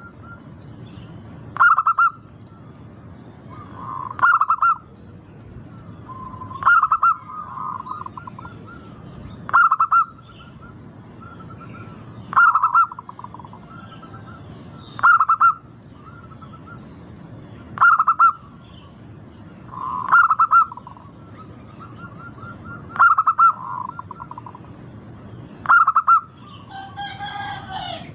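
Local zebra dove (perkutut) cooing in short, loud phrases repeated about every two and a half to three seconds, each trailing off into softer notes. Near the end a different call with several stacked pitches comes in.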